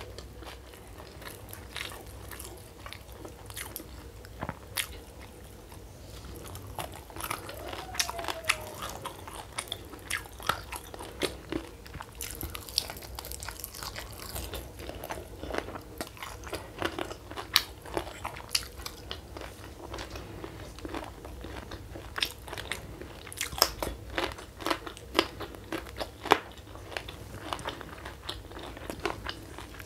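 Close-miked chewing and crunching of crispy fried mushroom with rice and sambal: irregular crisp crunches and wet mouth sounds, sparser at first and more frequent from about a third of the way in.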